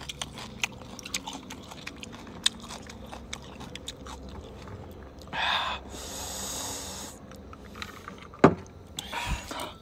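Close-up eating sounds: chewing spicy-sour squid, with many small wet clicks and smacks. A loud breathy rush of air comes about five seconds in, and there is one sharp click about a second from the end.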